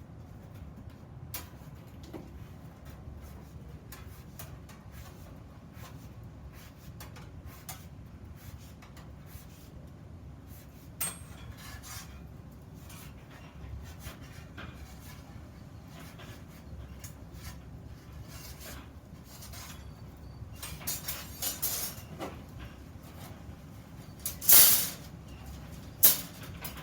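Scattered light clicks and knocks of objects being handled, with a few louder knocks in the second half, the loudest two near the end.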